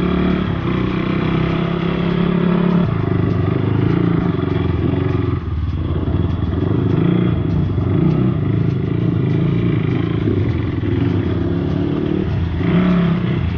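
Off-road motorcycle engine running under throttle while riding, its pitch shifting as the revs change. The revs drop briefly about five and a half seconds in, with a rattle of the bike over rough ground.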